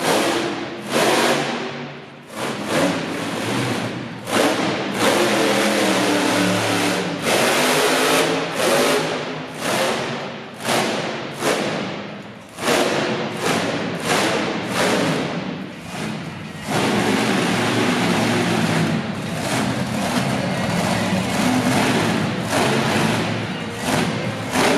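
Monster truck engine revving hard in a string of short throttle bursts, surging and dropping about once a second, then held open for a longer run in the last third.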